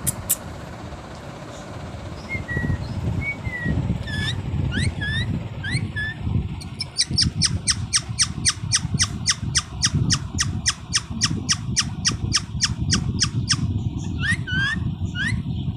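A green parrot calling: short whistled calls that glide up and down, then a fast run of sharp clicking chirps about four a second, then a few more gliding calls near the end. A steady low rumble lies underneath.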